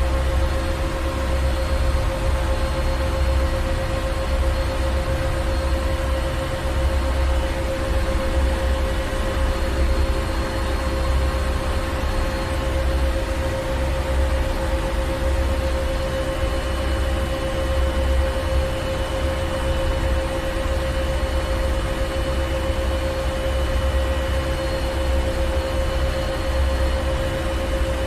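Ship engine room machinery running steadily: a deep low rumble with a constant mid-pitched hum and a layer of hiss, unchanging throughout.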